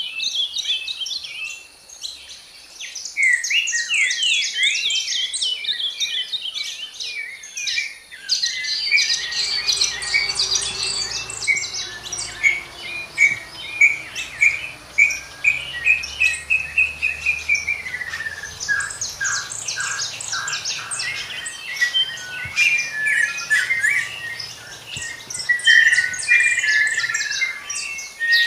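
Several songbirds singing, with rapid, overlapping chirps and trills. From about nine seconds in, a faint low rumble runs underneath.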